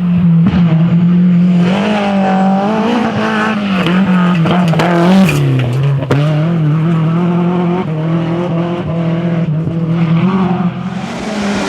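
Historic rally car's engine running hard at high revs. Its pitch dips and recovers about halfway through, then falls steadily near the end.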